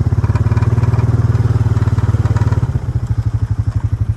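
Small vehicle engine running with an even, rapid putter as the vehicle drives off, working harder for the first couple of seconds, then easing back a little before the three-second mark.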